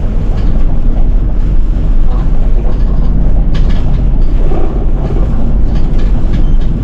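City bus running, heard from inside the cabin: a steady deep engine and road rumble with scattered short rattles.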